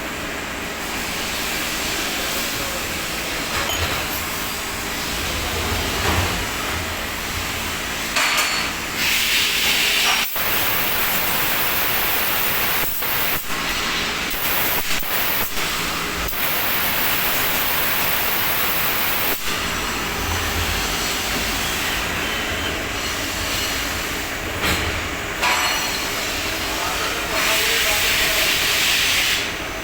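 CNC machine running a machining job: a steady mechanical hum under a constant hiss, with several louder spells of sharp high hiss in the middle and near the end.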